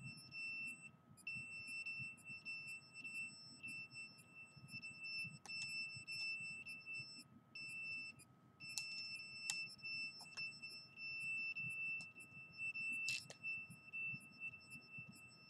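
Continuous high-pitched electronic alarm tone that breaks off twice for about half a second to a second and a half, with faint quick ticking above it.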